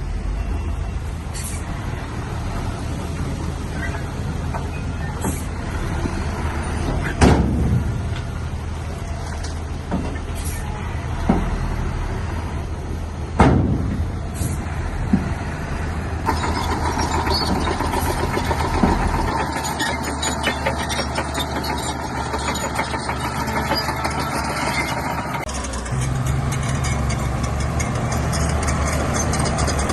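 Shantui bulldozer's diesel engine running, with a few sharp knocks in the first half. The engine's sound shifts about halfway through and again near the end.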